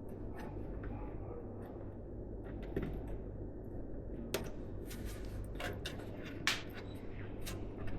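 Scattered clicks and light knocks of computer parts being handled during a PC build, the sharpest about four and a half and six and a half seconds in, over a steady low hum.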